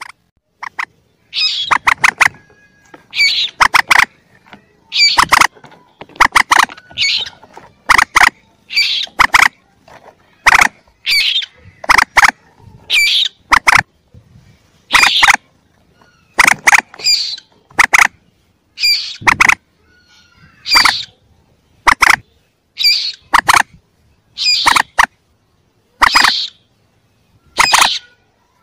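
Common moorhen chick calls from a recorded hunter's lure: short, sharp calls in tight clusters, about one cluster a second.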